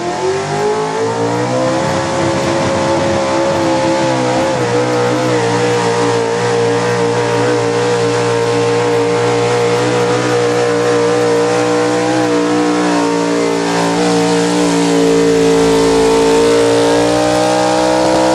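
A pulling truck's engine revs up over the first two seconds and is then held at high revs under heavy load, dragging the weight sled down the track in a steady, loud drone.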